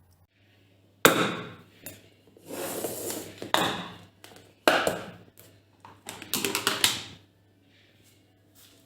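Objects being handled and set down: a few sharp knocks and clatters, with a run of quick clicks around six to seven seconds in.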